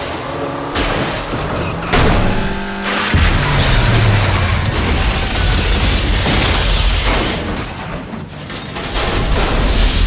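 Action-film car chase sound mix: score music with heavy booms and crashes, sharp hits near the start, about two seconds in and again about a second later, over car engine noise.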